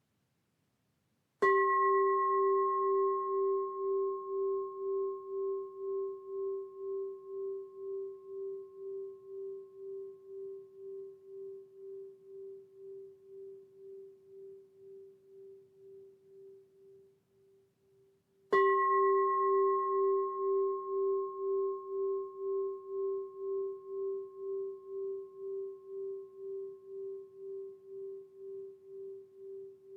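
A singing bowl struck twice, about a second in and again after some seventeen seconds. Each strike rings a low tone with fainter higher overtones that fades slowly, wavering in a steady pulse.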